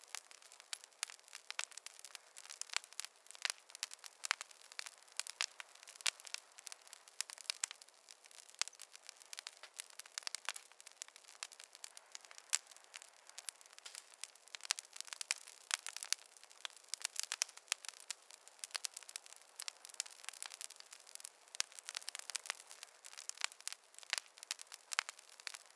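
Campfire crackling: a steady stream of irregular pops and snaps over a soft hiss, with no low rumble.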